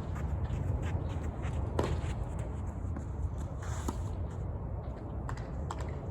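Tennis court sounds: light footsteps and shoe scuffs with scattered short taps and a sharper knock about two seconds in, over a steady low rumble.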